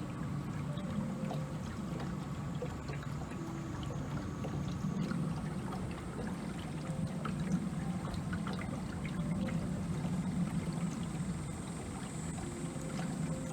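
A small tour boat under way: its motor runs steadily, with water trickling and splashing along the hull.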